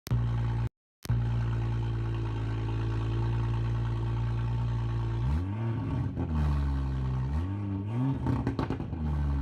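BMW M235i's turbocharged inline-six exhaust, muffler deleted, idling steadily, then revved in several quick throttle blips whose pitch rises and falls, with a few sharp cracks between the later revs. The sound cuts out twice for a moment right at the start.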